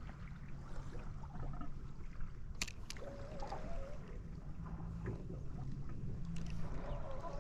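Steady low hum and water noise on a small fishing boat, with a sharp click about two and a half seconds in and a short warbling call a little after.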